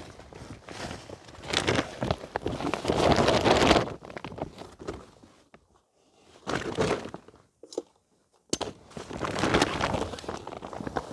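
Fire-lighting materials being handled: irregular rustling, crinkling and crunching with a few knocks. It is loudest about two to four seconds in, dies down around six seconds in and again near eight seconds in, then picks up again.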